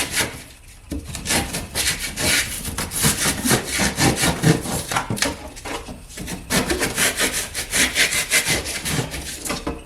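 Hand saw cutting with quick, repeated back-and-forth strokes, trimming material flush with the wall paneling. There is a brief pause before the strokes start, about a second in.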